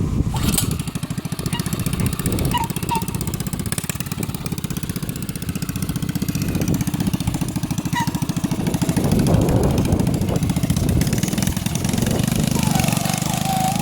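Homemade go-kart's small single-cylinder engines running, with a fast, even firing rhythm that swells somewhat louder about two-thirds of the way in.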